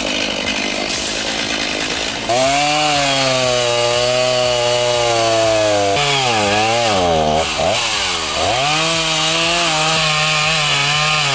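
Two-stroke chainsaw cutting timber at high revs. Its pitch dips sharply a couple of times past the middle as the chain bogs in the cut, then climbs back to full speed.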